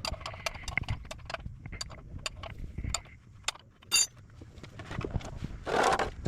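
Metal hand tools clinking and tapping in irregular, sharp knocks, with one ringing metallic strike about four seconds in and a short scraping noise near the end.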